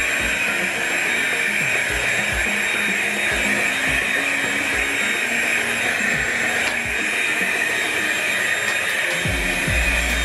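Bissell 3-in-1 lightweight stick vacuum running steadily on carpet, sucking up sprinkled soil, with a constant rushing hiss and a thin high motor whine.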